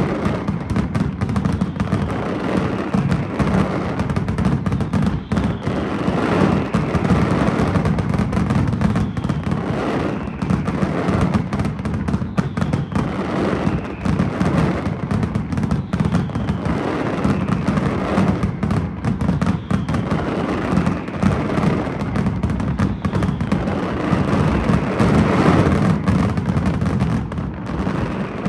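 Fireworks firing continuously in a dense barrage of rapid bangs and crackling. A faint falling tone recurs about every two seconds.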